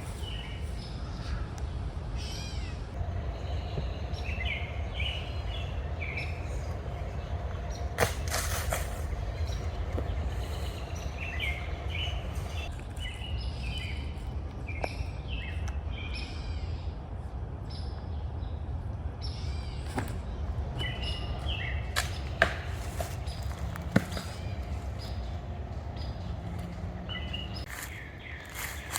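Small birds chirping over a steady low rumble, with a few sharp knocks: the loudest about 8 seconds in, and two more near 22 and 24 seconds.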